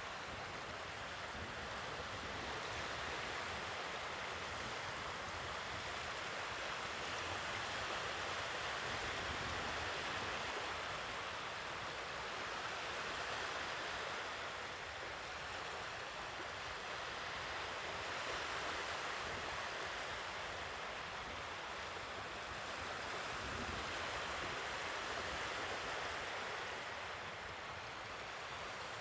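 Sea waves washing on the shore, a steady rush that swells and eases slowly every few seconds.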